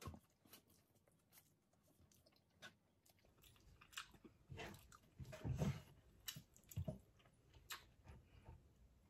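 Quiet close-up chewing of a mouthful of food, with scattered small wet clicks and a louder stretch a little past halfway.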